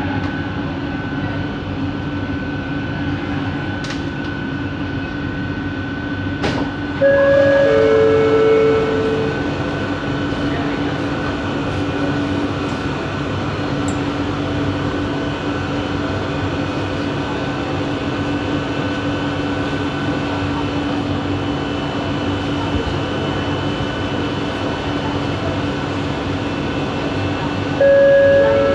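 Kelana Jaya Line light-metro train's original linear induction motor drive, heard inside the carriage as a steady whine over the running rumble. About seven seconds in, a loud two-tone electronic chime drops from a higher to a lower note, and it starts again at the very end.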